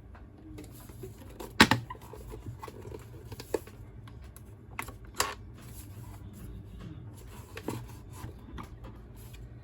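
Scattered sharp clicks and knocks of hard objects being handled, the loudest about one and a half seconds in, over a low steady hum.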